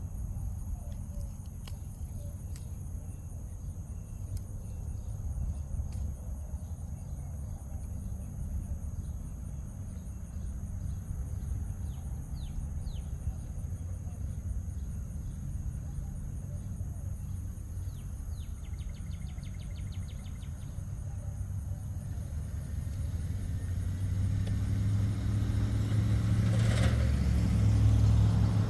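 Road traffic rumbling steadily under a high, steady insect drone, with scattered short bird chirps and a brief rapid trill about two-thirds of the way through. Near the end a vehicle grows louder as it passes close by.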